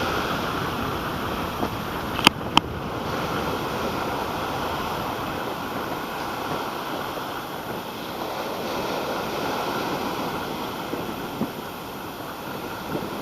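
Wind-driven waves washing steadily, with wind blowing across the microphone. Two sharp clicks come close together a little over two seconds in.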